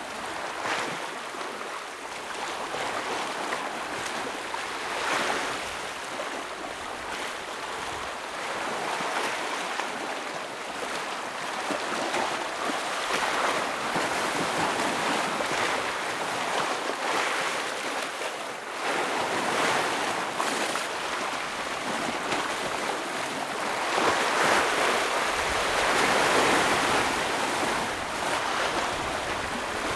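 Ocean waves breaking and washing over a rocky shore: a continuous rush of surf that swells and ebbs, with the biggest surge about three-quarters of the way through.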